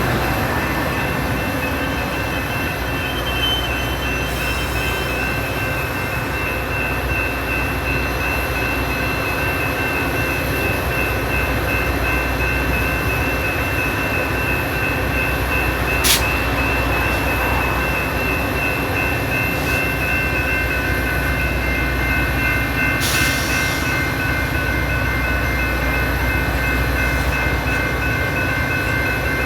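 Metra commuter train, a steady low rumble with a few high steady tones over it. A single sharp click about halfway through, and a brief hiss about three quarters of the way in.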